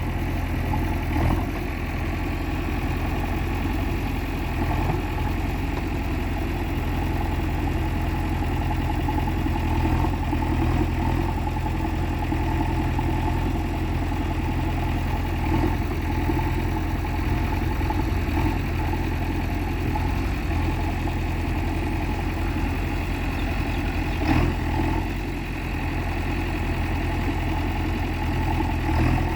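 Heavy diesel engine running steadily at idle, with a few scattered short knocks.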